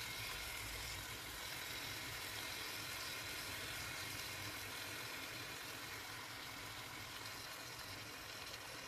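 Fish and turmeric seasoning paste sizzling steadily in a wok, a little softer near the end.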